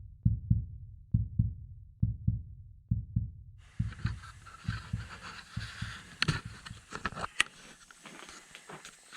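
Heartbeat sound effect: pairs of deep thumps repeating about once a second, fading out in the later seconds. About three and a half seconds in, a hiss with scattered sharp clicks joins it.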